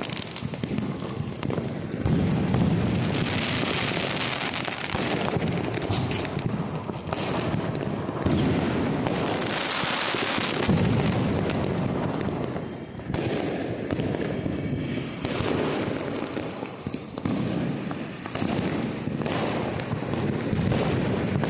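Many firecrackers going off without pause: dense, rapid crackling and popping with heavier bangs mixed in, and two spells of loud hissing about three and ten seconds in.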